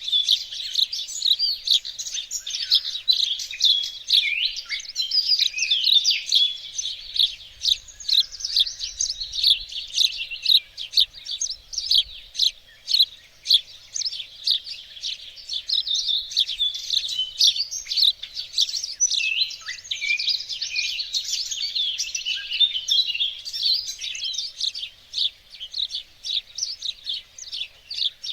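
Several small songbirds singing and chirping at once: a dense, continuous chorus of quick high chirps and trills.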